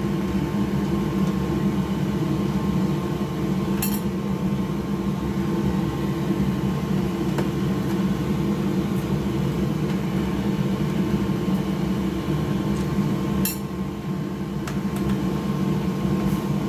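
Steady hum of a running mechanical fan, even and unchanging, with two light sharp clicks about nine seconds apart.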